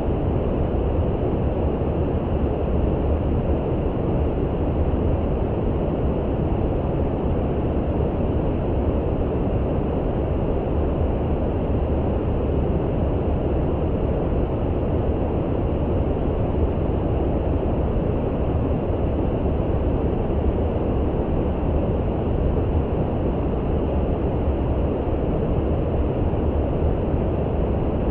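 Brown noise: a steady, deep hiss with no changes or separate events, strongest in the low end and dull in the highs.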